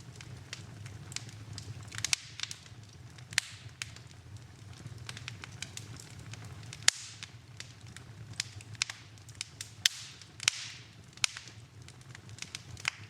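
Fire burning in a fireplace, crackling with frequent irregular sharp pops, a few of them louder, over a steady low rumble of the flames.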